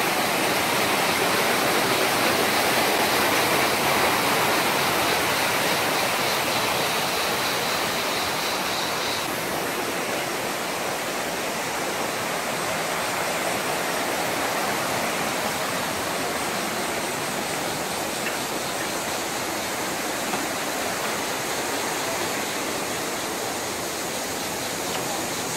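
Canyon stream water rushing steadily through rock pools and small cascades, getting slightly quieter over the first half.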